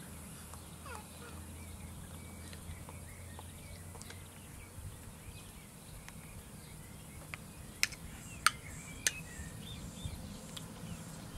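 Small birds chirping overhead, a steady scatter of short high chirps, over a low steady hum. About eight seconds in come three sharp clicks in quick succession, the loudest sounds here.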